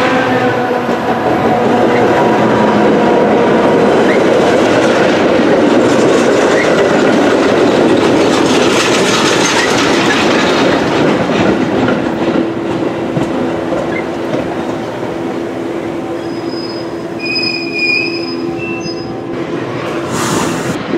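A train passing, its cars rumbling and clacking steadily over the rails. Brief high-pitched wheel squeal comes in near the end.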